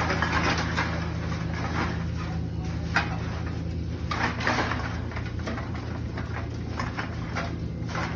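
A full plastic bag of empty bottles being handled and tied shut, rustling, with a few short clicks and knocks, over a steady low electrical hum.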